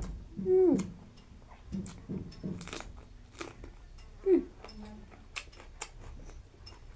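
Close-up chewing of a mouthful of food, with many wet smacking clicks of lips and tongue. Two short murmur-like sounds drop in pitch, one about half a second in and one about four seconds in.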